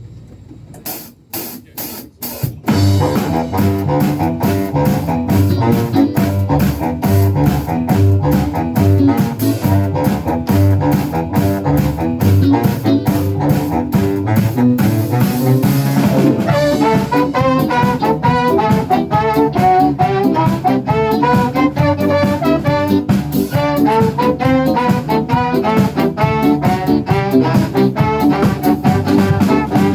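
Live band starting a number: a few sharp drum hits, then the full band comes in loudly about two and a half seconds in with a steady beat. A lead melody line enters about halfway through.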